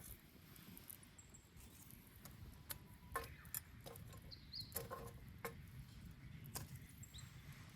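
Wood bonfire crackling: a faint low rumble with irregular sharp snaps and pops from the burning wood, clustering between about three and seven seconds in.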